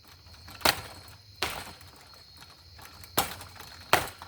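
Damaged three-bladed ceiling fan running wobbly, with four sharp knocks at uneven intervals as its blades take hits during its destruction.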